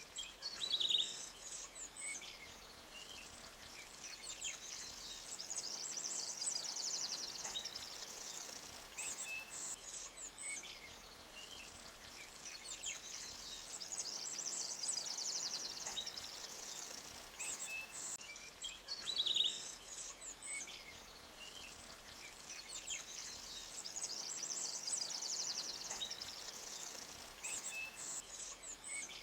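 Small forest birds chirping and giving high buzzy trills over a faint steady wash of flowing creek water. The same run of calls comes round about every nine seconds, as in a looped ambience track.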